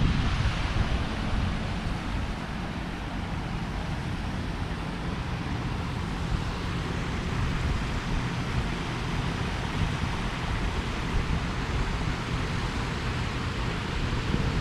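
Steady hum of road traffic in the city, with low rumbling wind on the microphone.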